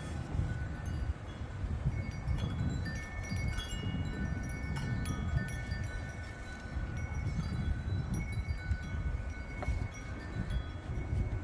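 Metal wind chimes ringing in gusty wind, many tones struck irregularly and overlapping, over a low rumble of wind buffeting the microphone.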